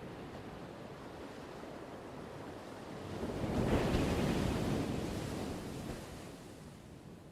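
Ocean surf: a steady low wash of waves. One wave swells about three seconds in, breaks, and washes out over the next few seconds.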